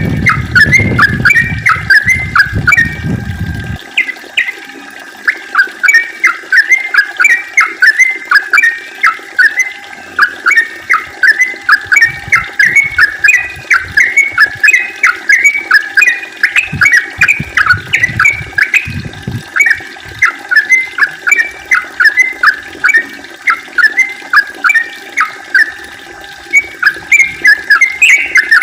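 Yellow-vented bulbul (trucukan) singing a long, unbroken run of quick chirping notes, about two to three a second: the rapid 'ropel' song that bird-keepers prize. A low rumble sits under the song for the first few seconds.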